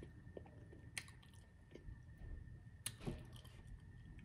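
A person chewing food close to the microphone: faint wet mouth sounds with a few sharp clicks, the plainest about a second in and just before three seconds.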